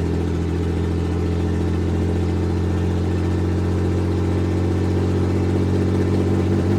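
Truck engine held at a steady speed, capped at about 2,000 rpm by its home-programmed two-step rev limiter instead of the 4,800 rpm that was set for the second step.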